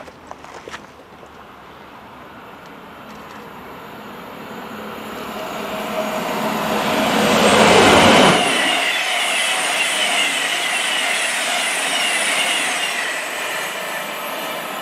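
A multi-coach passenger train passing: its rushing noise builds to a peak about halfway through, then runs on steadily with a wavering high ringing from the wheels on the rails as it moves away, fading near the end.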